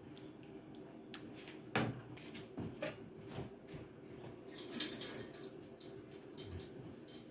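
Kitchen utensils, a spoon among them, clinking and knocking against a pot in short scattered taps, with one louder clatter about five seconds in.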